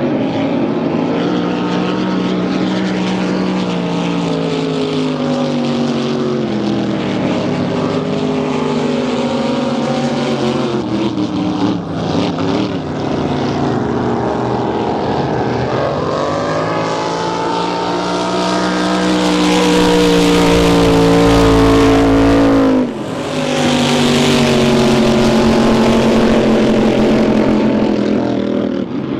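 Racing boat engines running hard. The engine pitch sags over the first several seconds, then climbs steadily through the middle. About three quarters of the way through it breaks off sharply, and loud engine noise picks up again at once.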